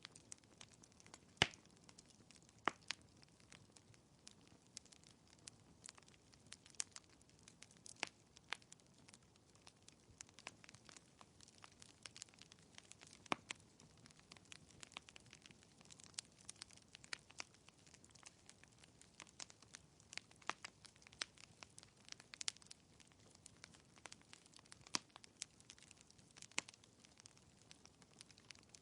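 Logs burning in a fireplace, crackling with irregular sharp pops and snaps over a faint soft hiss; the loudest snap comes about a second and a half in.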